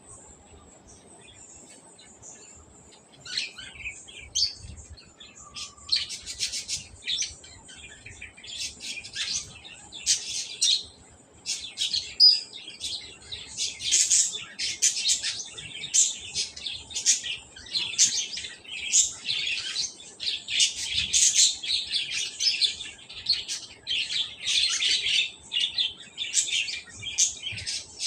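Small birds chirping in quick, busy runs of short high calls, starting a few seconds in and growing denser, over a faint steady high-pitched tone.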